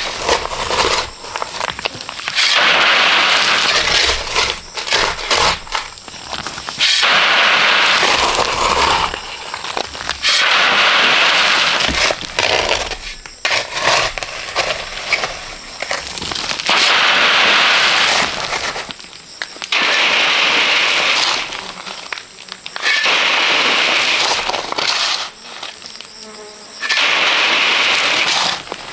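Repeated rough scraping strokes, each a second or two long, coming every three to five seconds, with small clicks and knocks between them: a hand tool working through gritty material.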